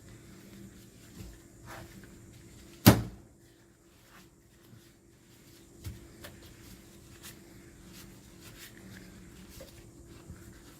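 Bench handling noises: one loud, sharp knock about three seconds in and a smaller one about three seconds later, among light clicks and taps of parts and tools being handled while the shock absorber is put back together.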